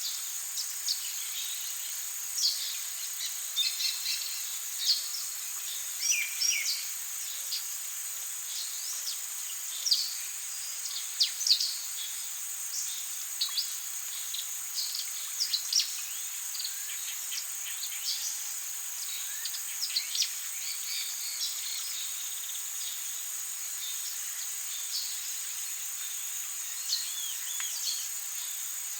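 Tropical rainforest soundscape: a steady high-pitched drone of insects with many short bird chirps and calls over it, busiest in the first twenty seconds and thinning out later.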